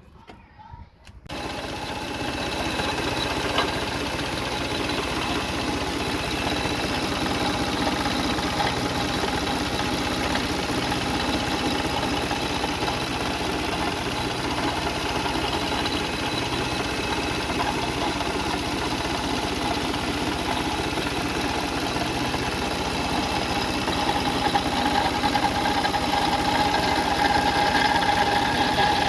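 Toyota Sienna 3.3L V6 engine running at idle, beginning suddenly about a second in and growing a little louder near the end. It carries the rattling engine noise that the owner suspects comes from one of the pulleys, the water pump or the timing belt.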